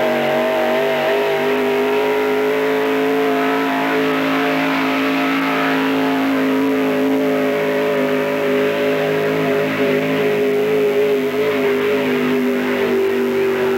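Pickup truck's gasoline engine running hard at high, steady revs during a truck pull, with its pitch easing down slightly near the end.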